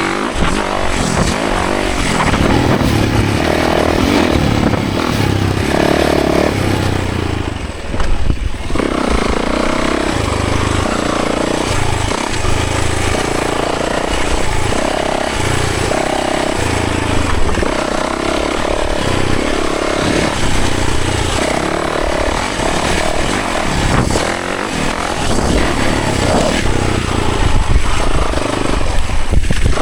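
Yamaha 450 dirt bike's single-cylinder four-stroke engine under way on a trail ride, the revs rising and falling repeatedly with throttle and gear changes. There is a brief drop off the throttle about eight seconds in before it pulls again.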